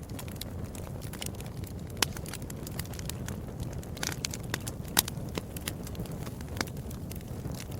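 Wood fire burning in a fireplace: a steady low rumble of flames with frequent sharp crackles and pops, two louder pops about two and five seconds in.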